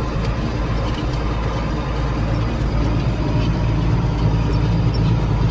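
Farm tractor engine running steadily at high throttle, a constant low drone that swells slightly partway through.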